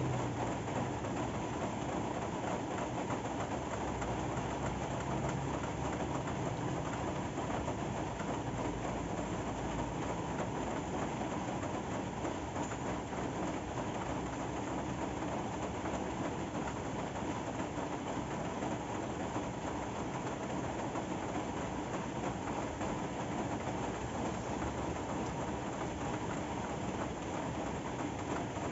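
Steady rain falling, an even hiss, with a faint low rumble during the first few seconds.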